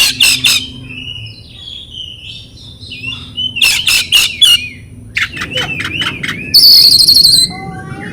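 Oriental magpie-robin (kacer) singing a loud, varied song: bursts of rapid repeated chirps with warbling notes between them, then a loud buzzy trill near the end.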